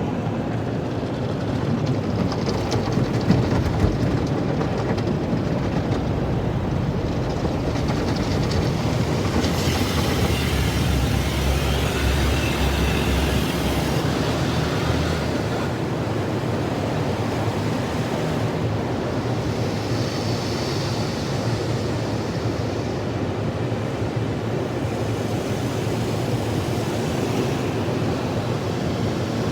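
Car wash running: a steady rumbling noise with hiss, louder with more hiss and a deeper rumble from about ten to fourteen seconds in.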